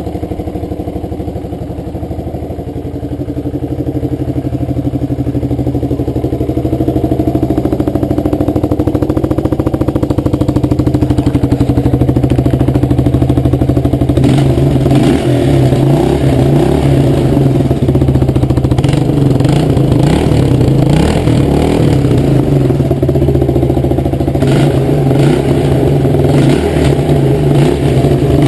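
Suzuki DR350S single-cylinder four-stroke motorcycle engine running. It builds a little over the first few seconds, then from about halfway it sounds rougher and fuller as the throttle is worked.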